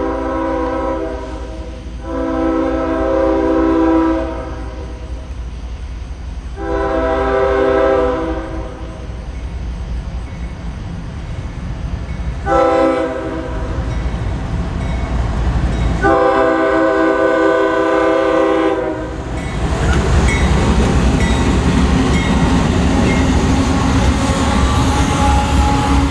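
Freight locomotive's multi-tone air horn sounding the grade-crossing signal, long, long, short, long. The first blast is already sounding as the sound opens. From about 20 s in the train passes close, with a steady rumble and wheel clatter.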